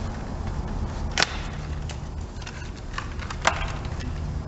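Small hard parts being handled: scattered light clicks and taps, with two sharper clicks about a second in and about three and a half seconds in, over a low steady hum.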